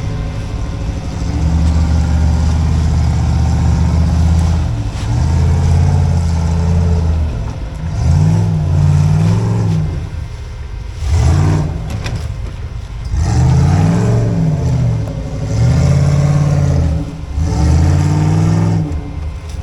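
Off-road rock-crawling rig's engine revving hard as it works over boulders. The revs are held for a few seconds, then come in several short bursts that rise and fall in pitch, with brief sharp knocks near the middle.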